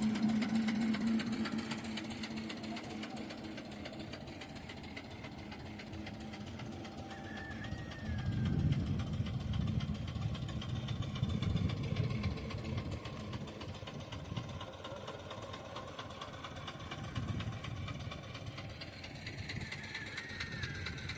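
HMT tractor's diesel engine running steadily, with low rumbling swells about eight seconds in and again near the end.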